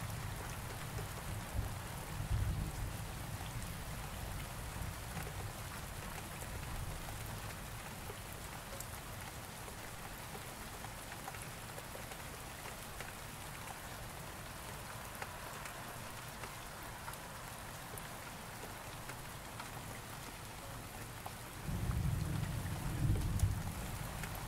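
Steady rain falling, with low rumbling thunder that fades over the first few seconds and a louder roll of thunder starting near the end.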